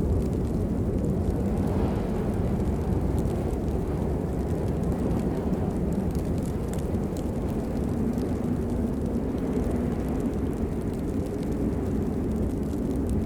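Steady rain, a dense low rush with faint scattered patter of drops on top.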